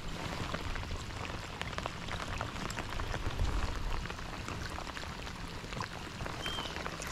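Steady rain falling, many small drop ticks over a continuous hiss.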